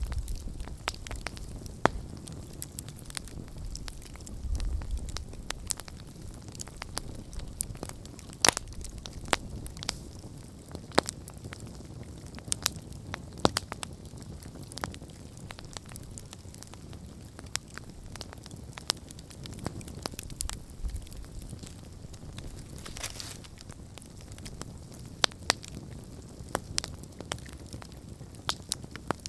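Wood campfire burning: irregular sharp crackles and pops over a low, steady rumble of the flames, with a few soft gusty thumps.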